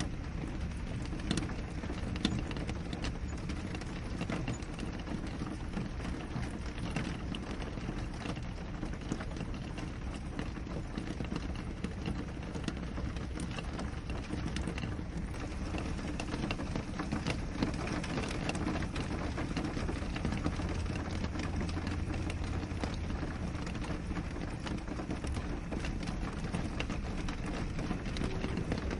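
Steady rain on a window pane: a dense, even wash of rain with many small drop ticks scattered through it.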